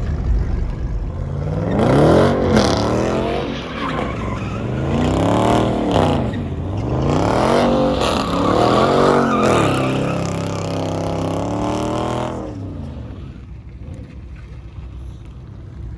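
Car burnout: the engine is revved up and down repeatedly over a hiss of spinning tyres, then drops away about two-thirds of the way through.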